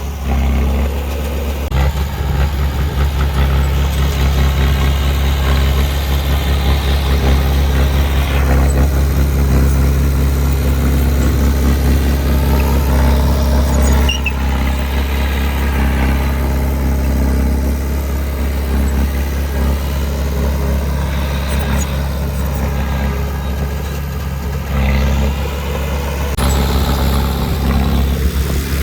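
Heavy construction machine's diesel engine running steadily with a deep, constant drone. The sound shifts abruptly a few times, about 2, 8 and 26 seconds in.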